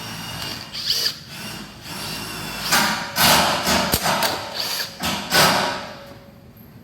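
Handheld power tool run in several short bursts of about a second each, working bolts loose while the engine is taken out of a Honda Zoomer scooter.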